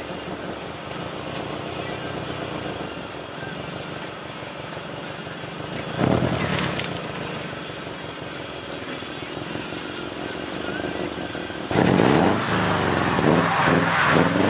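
Car engine running at low revs, then revving hard from about twelve seconds in, its pitch rising and falling. A short loud rush of noise comes about six seconds in.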